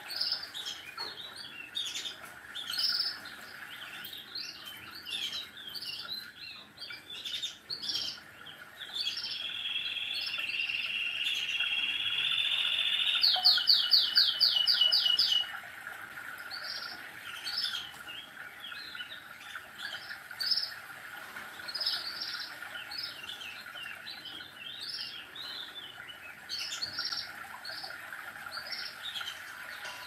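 Small songbirds chirping on and off. About a third of the way in, one bird holds a long trill, then breaks into a quick run of repeated notes, the loudest part.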